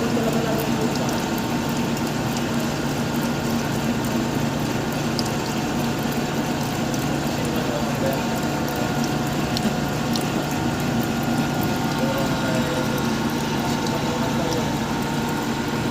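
Electric arc welding laying a build-up bead: a steady crackling hiss with scattered sharp pops, over a steady low hum.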